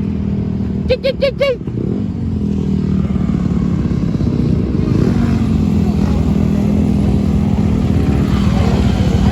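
Dirt bike engine running at a fairly steady pitch, with four short rising-and-falling calls about a second in.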